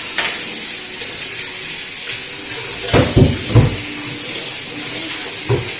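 Tap water running steadily into a sink while dishes are washed, with a few clunks of utensils about three seconds in and once more near the end.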